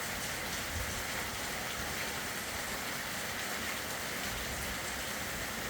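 A steady, even hiss with no distinct events, like light rain or background noise on the recording.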